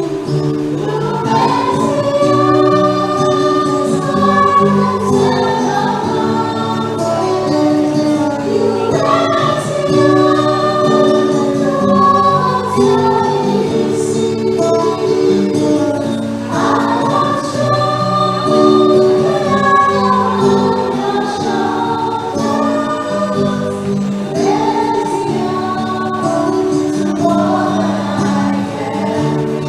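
Church choir singing a hymn with several voices in harmony over musical accompaniment, the notes long and held.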